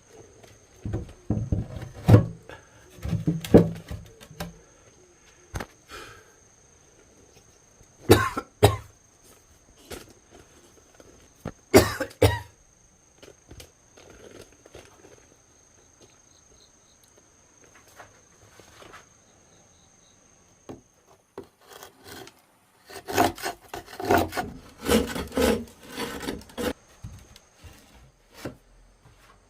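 Irregular knocks and scraping from hands-on building work with wood or stone, coming in several short clusters separated by quiet pauses, with a faint steady high whine underneath.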